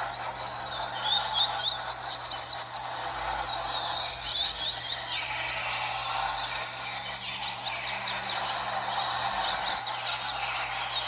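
Several double-collared seedeaters (coleiros) singing at once, quick overlapping chirping phrases of high sweeping notes. A steady background noise and low hum run underneath.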